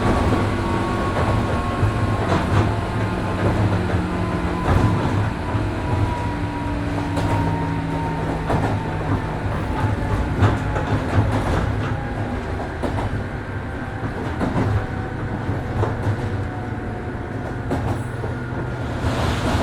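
JR 103 series 1500 subseries electric train running, with a steady rumble, wheels clicking over rail joints, and a faint whine that slowly falls in pitch.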